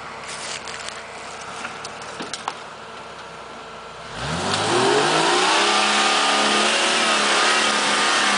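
Built Jeep Cherokee XJ's engine running low under a few sharp clicks, then revving up hard about four seconds in and holding high revs, much louder, as it climbs a rock hill.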